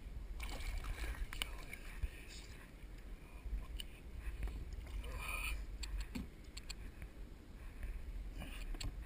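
Small boat or kayak on the water: a steady low rumble with scattered light knocks and clicks.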